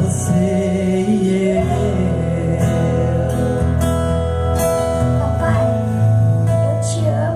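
Live band playing a slow gospel song, with steady bass, held notes and plucked acoustic guitar, and brief bits of wordless singing.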